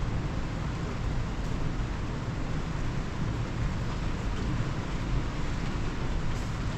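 Steady rain with a constant low rumble underneath, even and unbroken.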